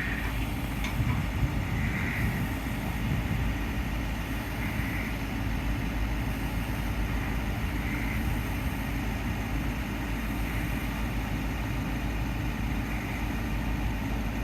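An engine idling, a steady low rumble throughout.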